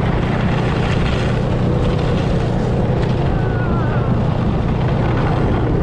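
Snowmobile engine running steadily under way, a constant loud drone with no break.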